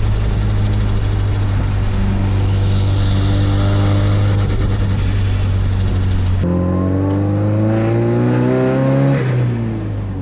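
Mazdaspeed 3's turbocharged 2.3-litre four-cylinder running steadily at first, with a lot of road and wind noise. After an abrupt change about six seconds in, the revs climb steadily for about three seconds under acceleration, then fall away near the end as the throttle is lifted.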